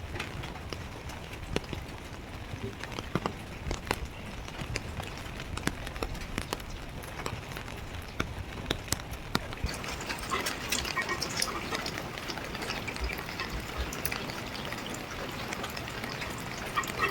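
Rain falling steadily, with many irregular drops tapping sharply on nearby surfaces.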